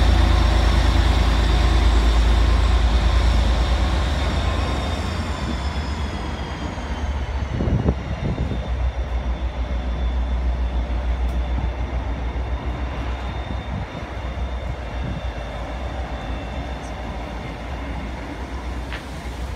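Class 57 diesel locomotive's EMD two-stroke V12 engine throbbing as it passes close hauling a train of coaches, loudest at the start, with high tones sliding down in pitch as it goes by. The coaches then roll past with a steady rumble and a few knocks from the wheels, fading slowly.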